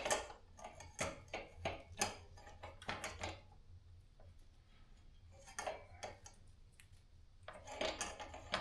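Scattered light clicks and knocks of metal bicycle parts being handled as a front wheel, with felt washers on its axle, is fitted into the fork. The clicks come in clusters, with a quieter pause in the middle.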